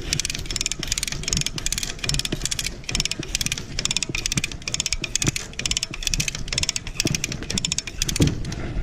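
Night insects chirping: a high, rapidly pulsed chirp repeating about twice a second, with a few low knocks under it.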